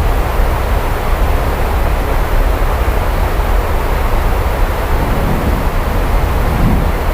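Steady heavy rainfall, a continuous even hiss with a deep low rumble underneath.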